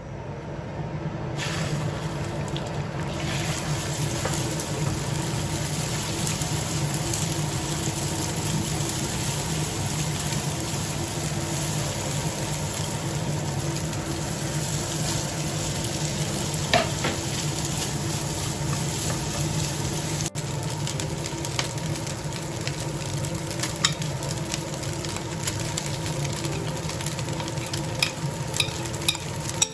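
Food sizzling steadily in hot oil as fried rice is stir-fried in a pan; the sizzle builds in the first couple of seconds. A few sharp knocks come later on, and a cluster of them near the end.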